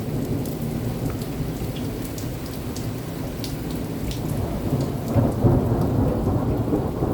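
Thunderstorm: rain falling with a low rumble of thunder that swells about five seconds in, and scattered drops ticking close by.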